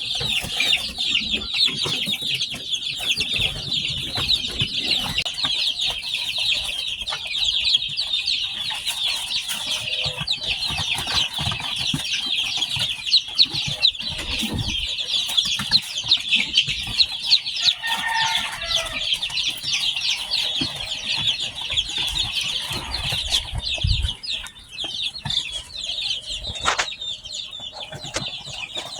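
A brood of newly hatched chicks peeping constantly, many high, rapid chirps overlapping.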